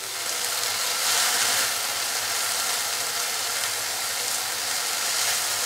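Shredded chicken with soy sauce and chili sauce sizzling in oil in a nonstick frying pan as it is stirred with a silicone spatula: a steady hiss as the spices fry.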